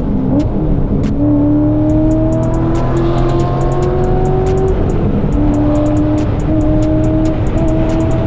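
C6 Corvette V8 accelerating through the gears: the engine note climbs steadily, drops at an upshift about halfway through, then climbs again.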